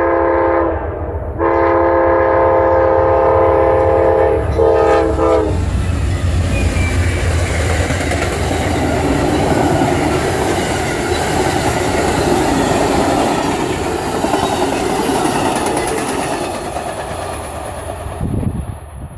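Amtrak passenger train sounding its horn as a chord, a short blast and then a long one starting about a second later, at a grade crossing. The train then passes close by: engine rumble and the clatter of wheels over the rail joints, fading near the end.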